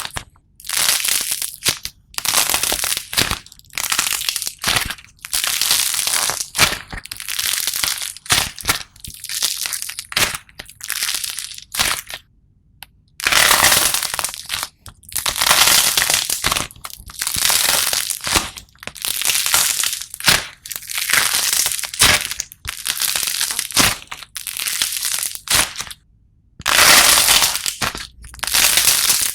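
Slime crackling and crunching as it is pressed and squeezed, in repeated bursts about a second long with short pauses between them.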